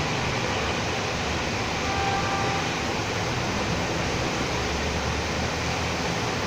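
Steady rain in a city street, with vehicles passing on the wet road and a low rumble that swells and fades. A short, faint tone sounds about two seconds in.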